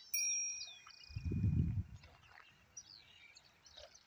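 Several birds chirping and calling, with a long, steady high whistled note that starts suddenly just after the start and holds for nearly two seconds. A brief low rumble on the microphone comes about a second in.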